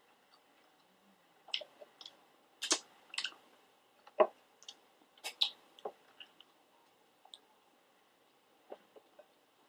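Close-miked chewing of pizza: about a dozen short, wet mouth clicks and smacks, most of them in the first six seconds.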